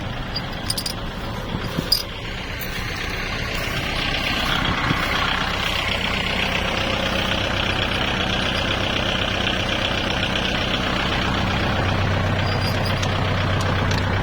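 Kubota tractor diesel engine running steadily. It grows louder about four seconds in and holds there, after a few sharp clicks in the first two seconds.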